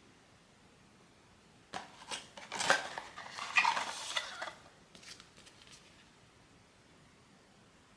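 Handling of blind-box packaging and a small hard plastic figurine: a burst of clicking, clattering and crinkling for about three seconds, then a few lighter clicks.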